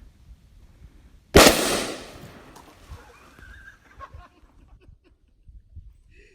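A plastic PET bottle packed with dry ice bursting from the gas pressure: one sharp, very loud bang about a second in, with an echo that dies away over about a second. It sounds like a firework shell going off close by, loud enough to hurt the ears.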